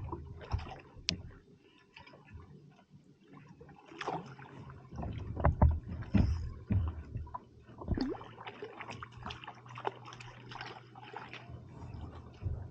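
Water splashing, sloshing and dripping at a kayak, with irregular light knocks and splashes as a just-landed trevally is handled. A faint steady low hum runs under the second half.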